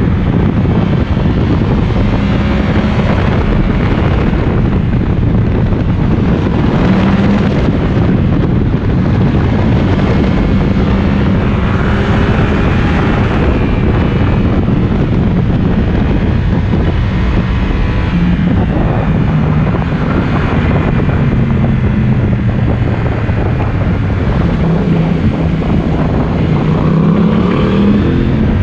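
Yamaha MT-10's crossplane inline-four with an Akrapovic exhaust running under way, its note rising and falling with the throttle and climbing near the end, under heavy wind noise on the microphone.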